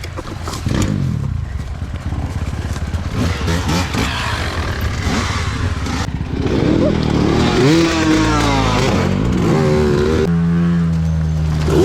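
Off-road motorcycle engines revving, the pitch rising and falling repeatedly, then holding a steady note for the last second or so.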